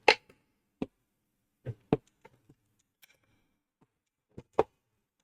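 Scattered sharp clicks and knocks from the Kenwood stand mixer's hard casing as it is twisted and pried loose by hand, about six in all, with a pair near two seconds in and another pair near the end.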